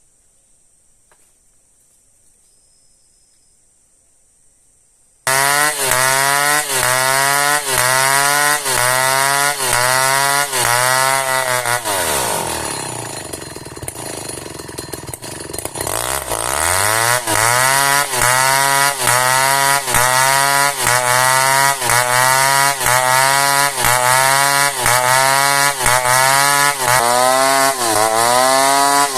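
Chainsaw cutting into an old merbau hardwood log. It starts abruptly about five seconds in, and its engine pitch dips about twice a second as the chain bites. Around the middle it falls back toward idle and then revs up again to keep cutting.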